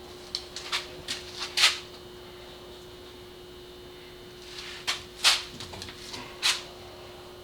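Sharp metal clicks and knocks from hand tools on the engine during spark plug work, in two short irregular clusters, over a steady low hum.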